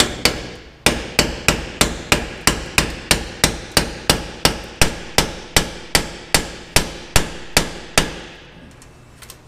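Hammer blows on a wedged exhaust part, about two dozen sharp metal strikes at roughly three a second, each with a short ring. They stop about a second before the end.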